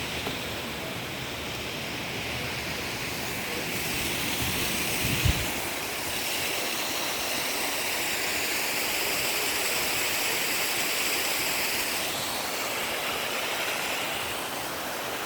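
Waterfall rushing steadily, a broad even roar of falling water, with a brief low thump about five seconds in.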